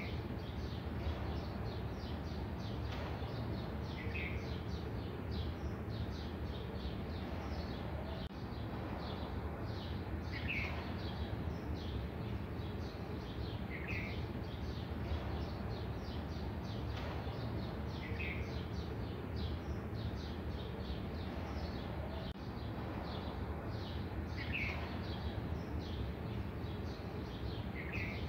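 Birds chirping, with one short call repeating every three to four seconds over a steady low background rumble.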